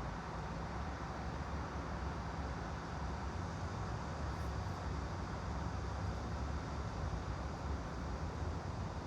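Steady background ambience: a constant low hum with an even hiss over it and no distinct events.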